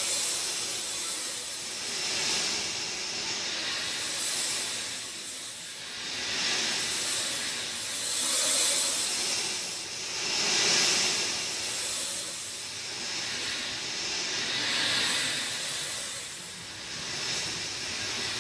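Steady rain falling, an even hiss that swells and eases every few seconds.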